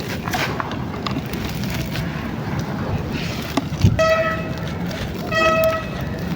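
A horn honks twice, about a second apart, each a short pitched toot, over steady street background noise. A dull thump comes just before the first honk.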